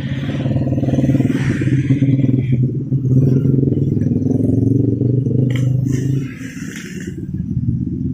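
A motor vehicle engine running close by at a steady pitch, loud for about six seconds and then dropping away, amid street noise.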